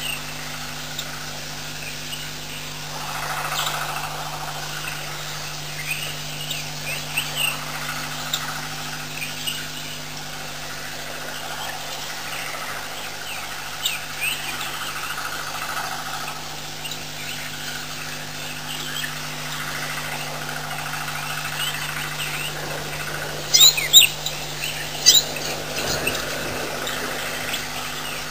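Bush ambience of scattered short bird chirps over a steady low hum, with a few louder, sharper bird calls near the end.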